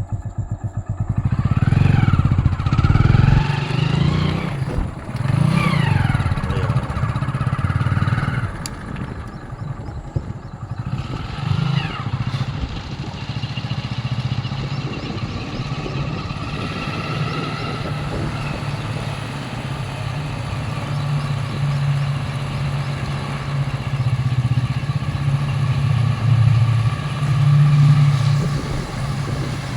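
A motorcycle engine pulls away, rising and falling in pitch several times through the first few seconds, then runs steadily at cruising speed.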